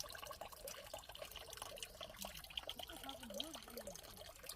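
Water trickling and dripping from a mountain mineral spring's spout, with faint voices in the background.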